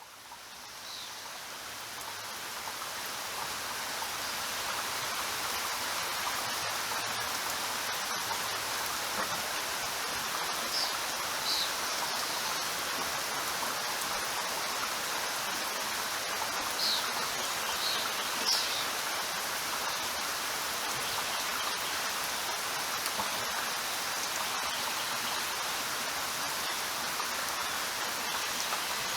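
Steady rain falling, an even hiss of drops that fades in over the first few seconds and then holds level. A few brief high-pitched chirps sound faintly through it.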